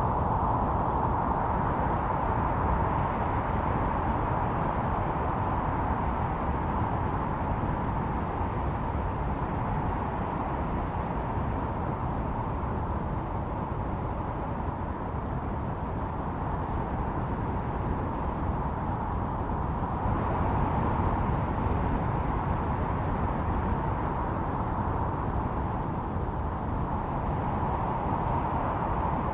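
Snowstorm wind howling steadily, a whistling tone that swells and eases every several seconds over a constant rushing hiss.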